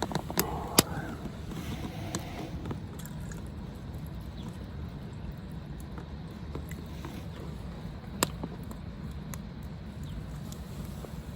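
A few sharp clicks or knocks, the loudest just under a second in and another about eight seconds in, over a steady low rumble.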